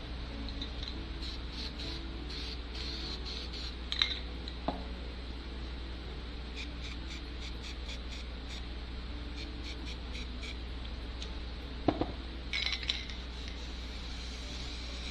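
Spray paint cans and metal tools being handled: scattered light clinks and rattles with a few sharp knocks, over a steady low hum.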